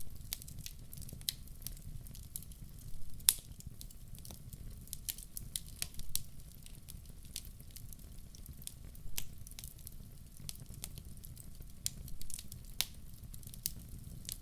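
Wood fire crackling, with sharp pops at irregular times over a steady low rumble.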